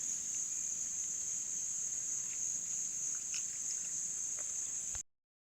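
Steady, high-pitched insect chorus droning without a break, cut off abruptly near the end.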